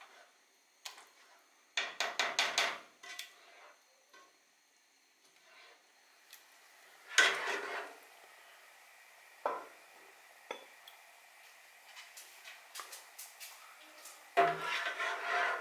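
Kitchen utensils clattering against a cooking pot and a ceramic plate as soup is mashed and served: a quick run of knocks about two seconds in, a louder clatter around seven seconds, a couple of single knocks, and a longer clatter near the end.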